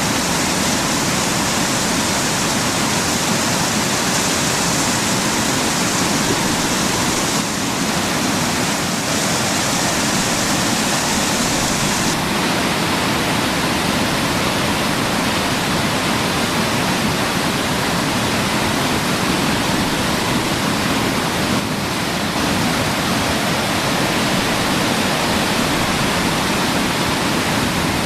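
Waterfall rushing steadily, a loud, even hiss of falling water; the high part of the hiss drops slightly about twelve seconds in.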